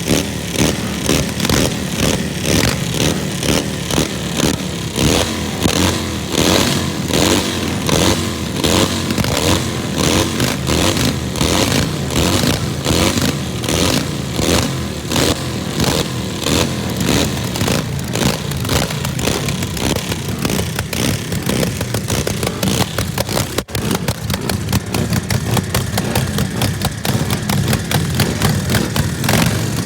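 Harley-Davidson 45 cubic inch flathead V-twin race engine warming up. For the first part the throttle is blipped over and over, the pitch rising and falling about once a second. Later it settles into steadier running.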